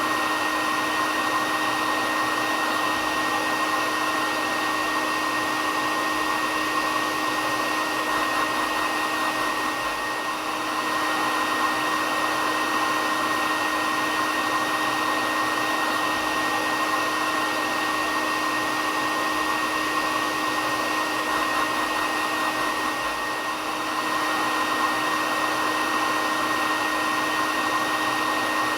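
Hair dryer running steadily: a continuous rush of air with a constant high tone over it.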